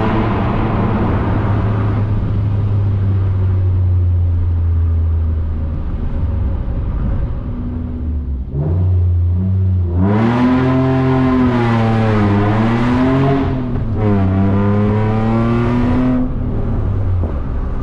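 Ford Mondeo ST220's 3.0 V6 running through a decat exhaust, with its catalytic converter removed. It holds a steady low note for several seconds, then from about ten seconds in rises and falls in pitch a few times as it is revved.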